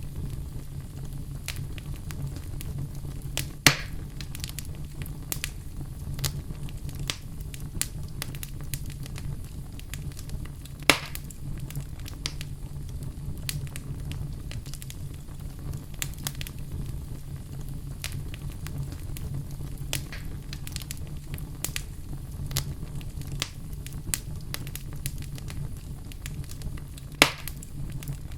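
Fire burning in a fireplace, crackling constantly over a steady low rumble. Three louder pops come about 4, 11 and 27 seconds in.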